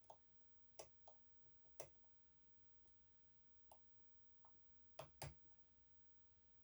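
Faint, sharp metallic clicks of a hook pick and tensioner working the sliders inside an EVVA 3KS high-security lock. About eight light clicks come at irregular intervals, with a close pair near the end.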